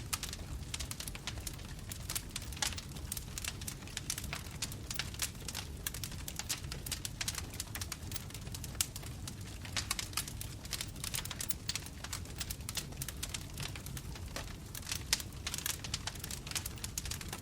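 Bonfire crackling: wood fire sending out a dense, irregular run of pops and snaps over a low, steady rumble of flames.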